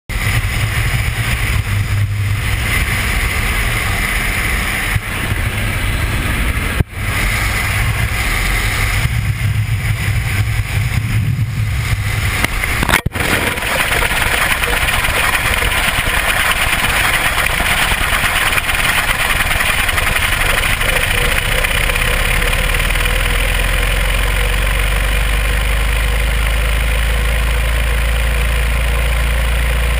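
Loud, steady rush of air and aircraft engine noise around a camera dropped from an airplane. There is a sharp click about 7 seconds in and another about 13 seconds in; after that the noise turns steadier, and a deep rumble builds near the end.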